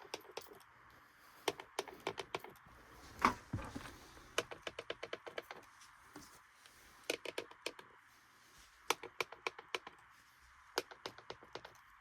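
Bursts of rapid, light clicking over a faint steady hum, with one louder thump about three seconds in.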